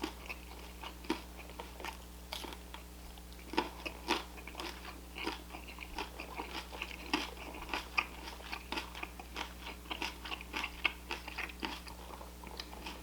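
Close-up chewing and crunching of food in the mouth: an irregular run of short crunches and wet mouth clicks, several a second.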